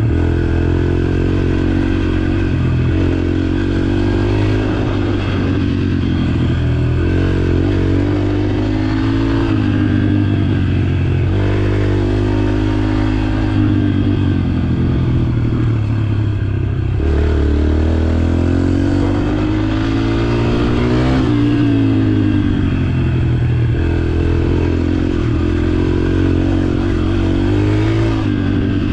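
Dirt bike engine running under way in third gear, its pitch rising and falling over and over as the throttle is opened and eased off.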